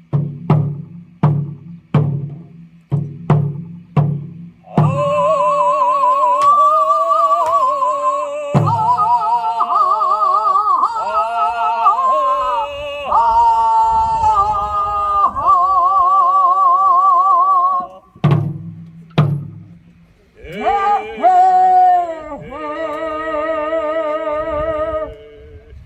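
Korean buk drum beating a steady pattern of about two strokes a second, then a singer in Korean traditional sori style holding long notes with a wide, heavy vibrato. A few single drum strokes mark the phrases, and a second sung phrase begins after two drum beats.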